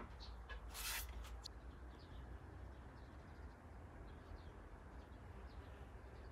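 Quiet background with faint, scattered small-bird chirps over a low steady hum. A click at the very start and a short scrape about a second in come from the wooden frame being handled on the saw table.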